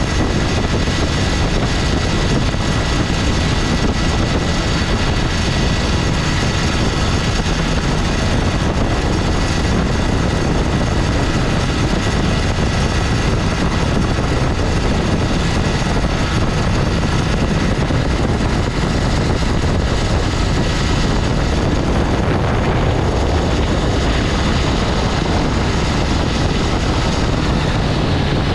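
1960 Gale Buccaneer 15 hp two-cylinder outboard motor running steadily under way, warmed up and holding its power with no sign of the compression loss it was said to suffer.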